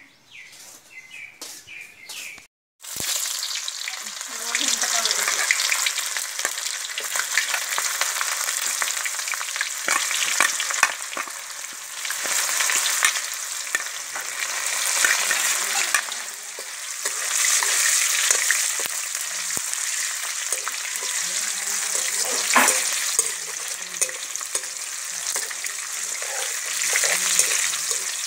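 Food sizzling and spitting in hot oil in a kadai, a steady dense hiss with scattered sharp crackles, starting about three seconds in. A metal spatula stirs it now and then.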